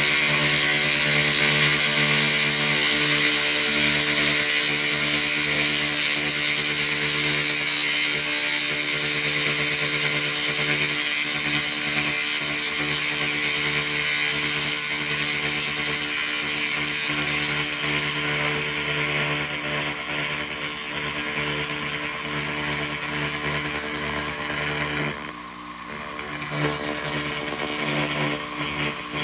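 SFX 2000 W laser rust remover running on metal: a steady buzzing hum under a dense crackling hiss as the beam strips rust, briefly cutting out for about a second near the end.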